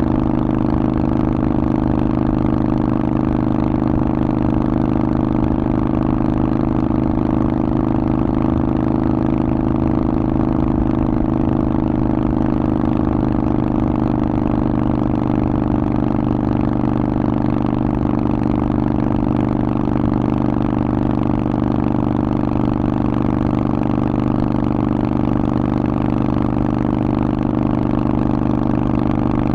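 Harley-Davidson Sportster Forty-Eight's air-cooled 1200 cc V-twin, breathing through a Vance & Hines aftermarket exhaust, running at a steady engine speed with an even, unchanging note.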